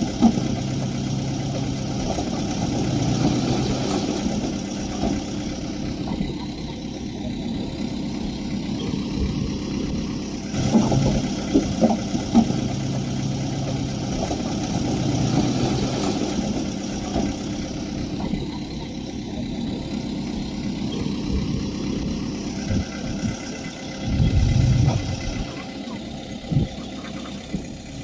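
Diesel engine of earthmoving machinery running steadily, with sharp metallic clanks near the start and again about a third of the way in, and a deep surge in engine sound near the end.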